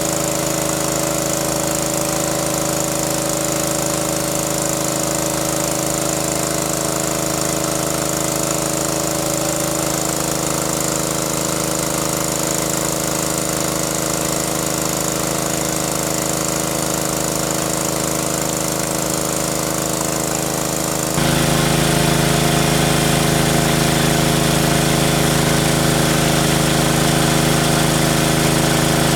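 A small engine running steadily. About two-thirds of the way through it changes suddenly to a louder, slightly different running note.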